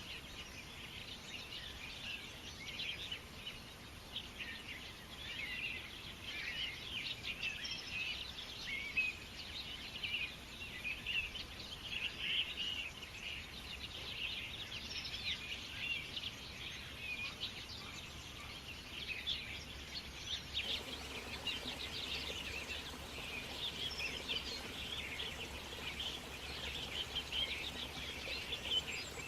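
A chorus of many birds chirping and calling in quick, overlapping short notes over steady outdoor background noise. About two-thirds of the way in, a faint low rumble joins the background.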